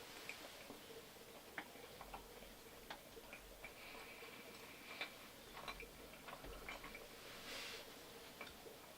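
Quiet eating sounds: faint, irregular small clicks and taps over a low steady hum.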